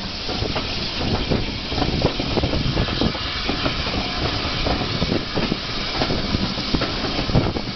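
Steam-hauled passenger train on the move: a steady rush of running noise with many irregular clanks and clicks from the wheels on the track, and a little steam hiss.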